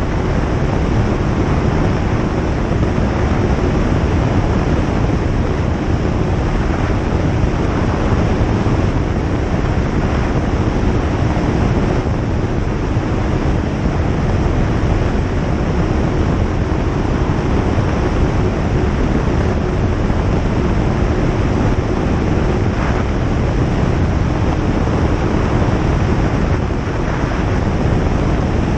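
Single-engine light aeroplane in flight, heard from inside the cabin: a steady, loud drone of engine and rushing airflow with a faint hum of engine tones, unchanging throughout.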